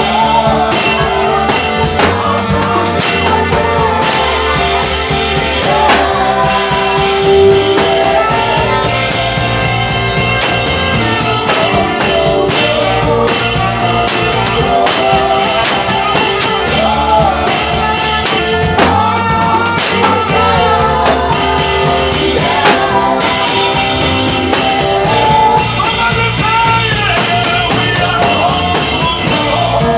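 Gospel instrumental music with a saxophone playing a wandering melody over a band with drums and guitar.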